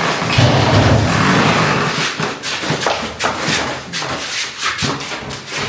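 Shuffling, rubbing and a run of short knocks as a boxed washing machine is carried and handled: a dense rubbing rumble for about two seconds, then many quick knocks and clicks.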